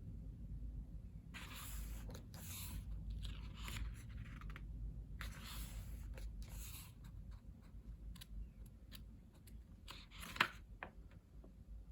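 Pages of a photobook being turned by hand: several bursts of paper rustling and sliding over the first seven seconds, then a few light taps, with one sharp tap about ten and a half seconds in.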